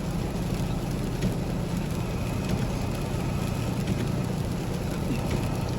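Steady engine and road noise of a truck being driven, a low, even rumble with a hiss of tyres on the wet road.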